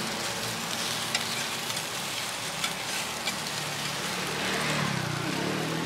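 Fuzhou buns sizzling in hot oil in a large uncovered frying pan, a steady hiss, with a few sharp clicks of a metal scraper against the buns and the pan.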